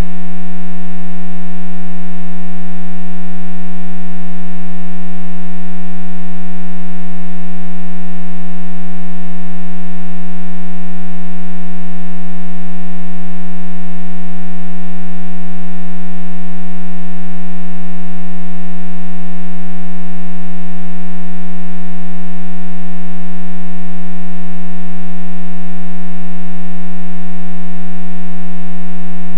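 Loud, unchanging buzzing hum at one low pitch with many overtones.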